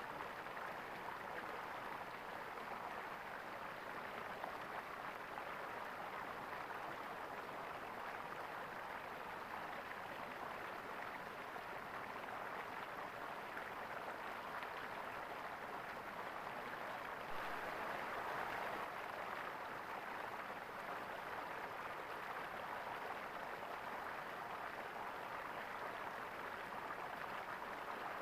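Stream water gurgling steadily, swelling a little for a couple of seconds about two-thirds of the way through.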